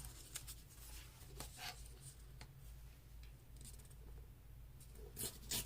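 Faint rustling and tapping of paper and craft tools being handled on a desk, with a quick run of sharp clicks near the end.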